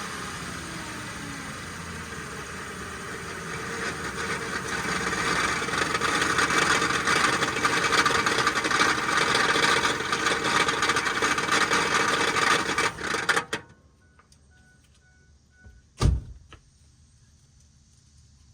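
SUV engine running with a harsh metallic grinding from the flexplate and torque converter area, heard after a full transmission rebuild with a new torque converter. The grinding grows louder over the first few seconds, then cuts off abruptly as the engine shuts down about 13 seconds in, and a single sharp knock follows a couple of seconds later.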